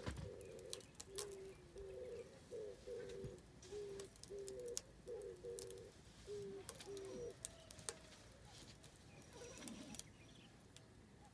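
A dove cooing, a run of low paired hooting notes lasting about seven seconds, over the scattered crackles and pops of burning oak firewood.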